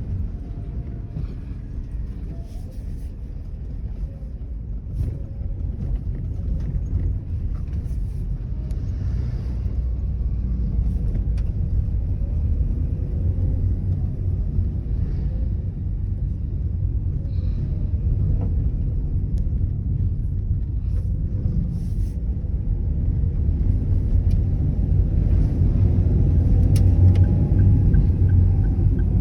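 Car driving: a steady low rumble of engine and road noise that grows gradually louder, loudest over the last few seconds.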